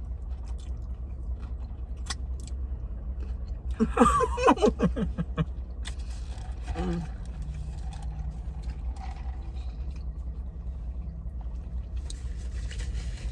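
A person eating and chewing over a steady low hum, with a few faint clicks. About four seconds in comes a short voiced sound with wavering pitch, the loudest moment.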